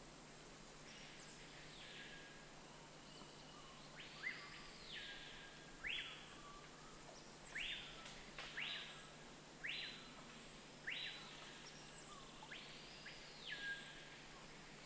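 A series of about eight high whistled calls, some sweeping sharply upward and some arching up and then down, over a faint steady background hiss.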